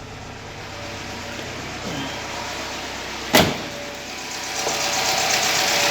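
Rebuilt UMZ-4216 petrol four-cylinder idling while warming up, running normally now that the piston knock has been repaired. There is one sharp click about three and a half seconds in, and the engine sound grows louder over the last two seconds.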